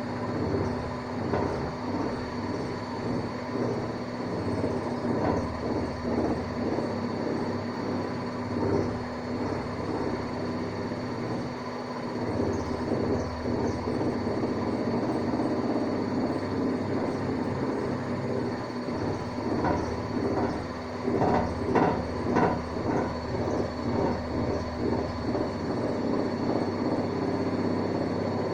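Hanseatic washing machine on a loud spin cycle: a steady hum with fast, continuous rattling and knocking, the knocks growing heavier about two-thirds of the way through.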